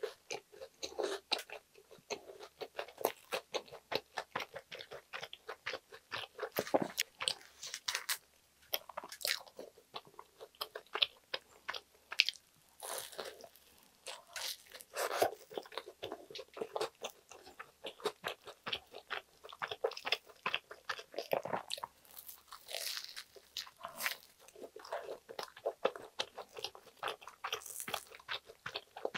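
Close-miked eating of an air-fried cheese sandwich: bites and chewing with steady crunching and many short mouth clicks, without pause.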